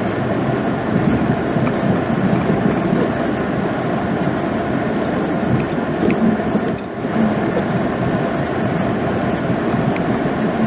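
Pickup truck with a snow plow, running while plowing snow: a steady, loud rumble that dips briefly about seven seconds in.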